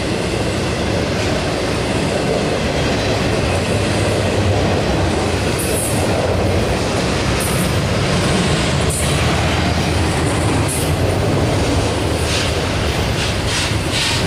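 Double-stack intermodal container cars rolling past with a steady loud rumble and clatter of steel wheels on the rails. Brief high-pitched wheel squeals come a few times, with a run of quick clacks near the end.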